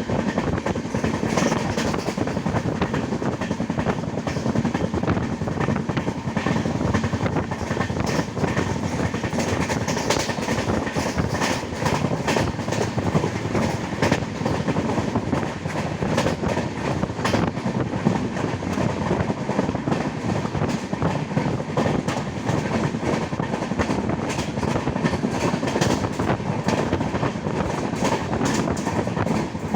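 Passenger train running at speed, with the steady rumble of the carriage and the clatter of wheels over rail joints.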